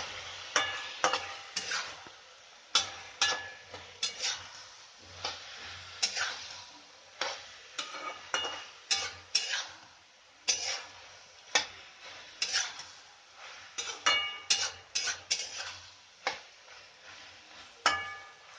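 A metal spoon stirring food in a metal cooking pan, striking the pan again and again in an uneven rhythm with short clinks, over a faint sizzle.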